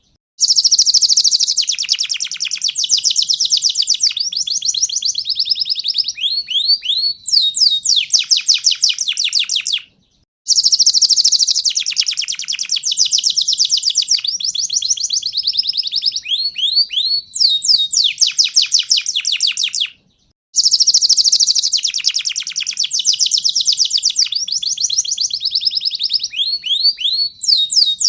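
Panda canary singing a long, loud song of rapid trills and rolls with quick falling notes. The same roughly ten-second phrase repeats three times with a brief silence between each.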